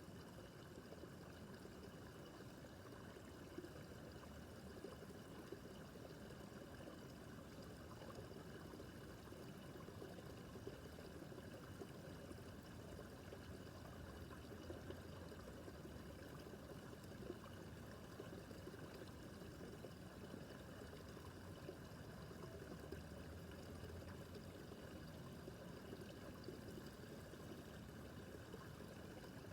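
Small babbling brook, water trickling and splashing in a steady, quiet flow with small scattered plinks.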